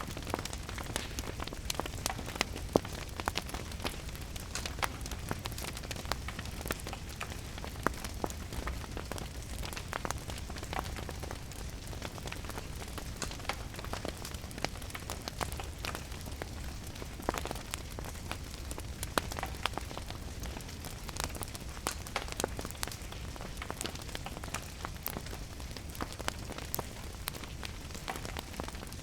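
Steady rain with a wood fire crackling in a fireplace: an even hiss and low rumble, dotted with frequent sharp crackles and pops.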